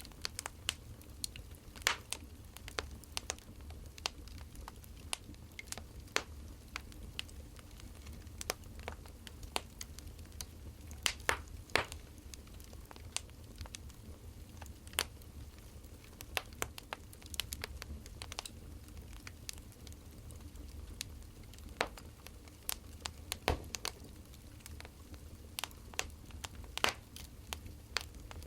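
Burning firewood crackling: irregular pops and snaps, a few louder ones, over a steady low rumble.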